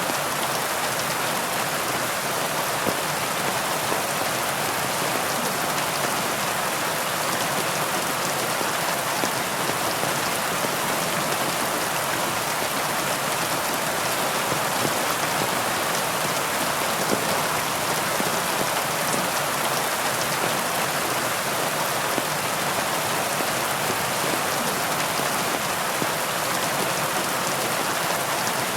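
Steady heavy rain falling, a dense even hiss of drops with fine individual patters and no change in strength.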